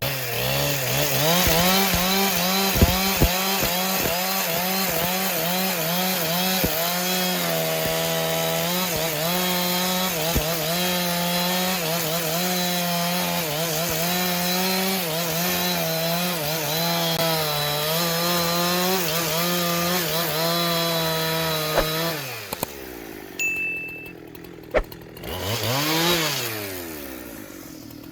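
Chainsaw engine running at high revs while cutting wood, its pitch wavering as the chain loads and frees in the cut. About three-quarters of the way through the revs fall away, and a short throttle blip rises and falls near the end.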